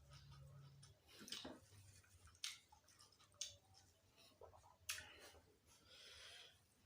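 A person eating close to the microphone: chewing, with a sharp crunch or bite every second or so, four in all, and a short rustly chew near the end.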